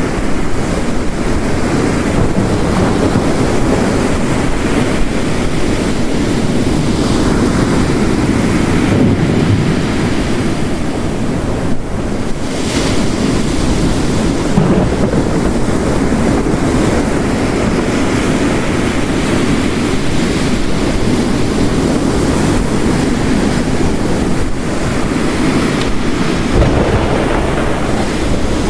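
Ocean waves crashing on a rocky coast under heavy rain, a steady, dense wash of surf and downpour that swells and eases slowly.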